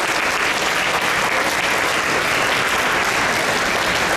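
Concert audience applauding steadily, with dense, continuous clapping.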